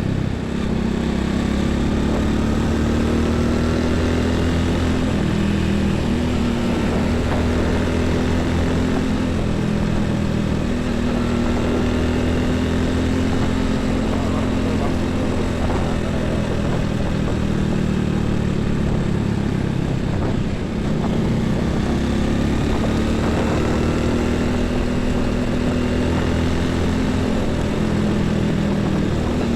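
Road traffic dominated by heavy trucks' diesel engines running, with tyre and road noise. The engine pitch drifts slowly up and down and shifts a few times as vehicles pass.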